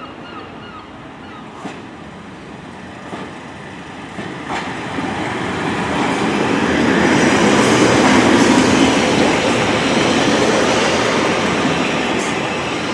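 Class 143 Pacer diesel multiple unit running along the platform road, with a few clicks from the wheels over the rail joints. The rumble builds to its loudest about eight seconds in, then slowly fades.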